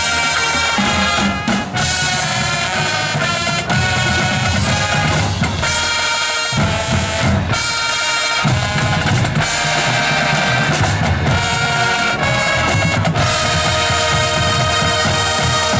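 Marching band playing loudly: sustained brass chords over heavy bass drums and snare, with the drums hitting hard in several short breaks.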